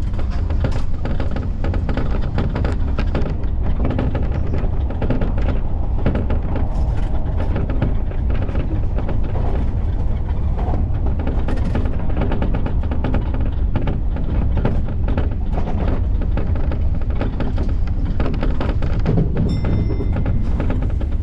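Electric commuter train running between stations: a steady low rumble with repeated knocking clatter from the wheels over the track. A brief high-pitched squeal comes near the end.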